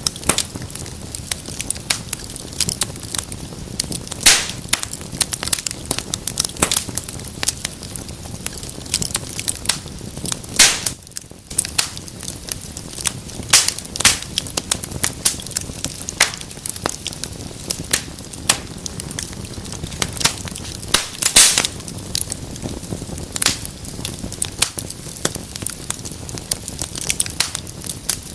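Wood fire in a fireplace, crackling and popping in irregular clicks over a low rush of flame. A few sharper snaps stand out, about four, ten and twenty-one seconds in.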